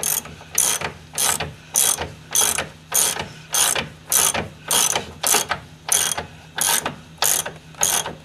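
Ratchet wrench clicking in about fourteen short, even strokes, a little under two a second, tightening a front-suspension alignment-cam bolt.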